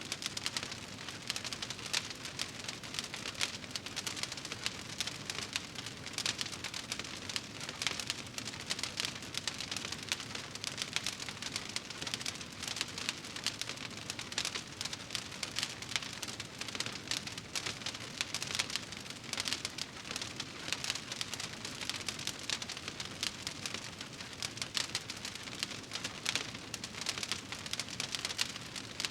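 Wood fire burning in a fireplace: steady crackling with a dense stream of small pops.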